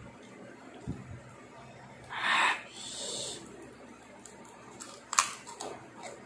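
Crisp chicharon (fried pork rind) being bitten and chewed, with a few sharp crunches about five seconds in. Before them come two breathy, hissing breaths.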